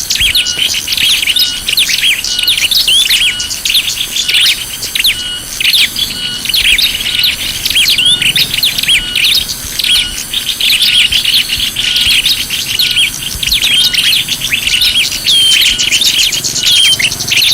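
Bird-lure recording of many small birds chirping and twittering at once, a dense, high-pitched chorus, with a short note repeating about twice a second underneath.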